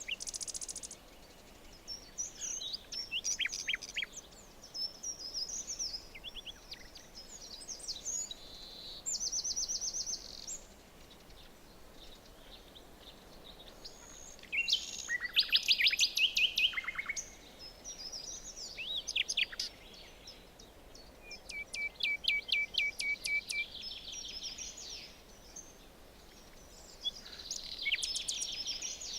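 Several forest birds singing and calling, with quick trills and runs of repeated chirps over a faint background hush. The loudest burst of song comes about halfway through.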